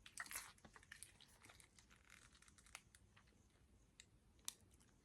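Near silence, with a faint rustle at the start and a few scattered faint clicks.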